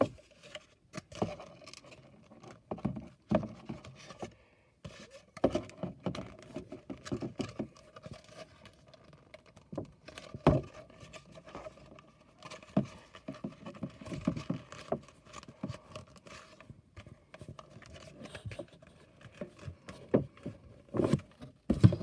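Cardboard playset pieces being handled and folded by hand: irregular taps, scrapes and rustles, with a few sharper knocks, the loudest about ten seconds in.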